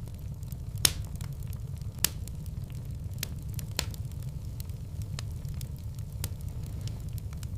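Wood fire burning in a fireplace, with a steady low rumble and irregular crackles and pops, a few of them sharper, at about 1, 2 and 4 seconds in.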